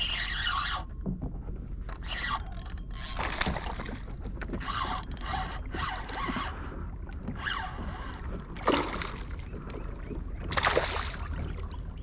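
Water splashing and sloshing in irregular bursts around a kayak while a hooked snook is fought, with a steady low rumble underneath.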